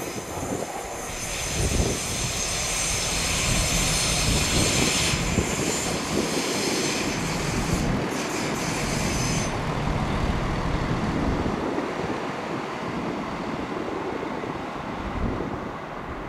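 CrossCountry Class 170 Turbostar diesel multiple unit running past, with steady engine and wheel noise. A high-pitched wheel squeal rides over it and stops about nine to ten seconds in.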